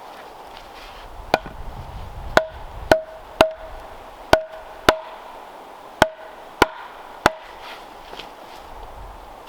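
Nine sharp knocks of a tool striking wood, irregularly spaced about half a second to a second apart. Each knock rings briefly at a single pitch.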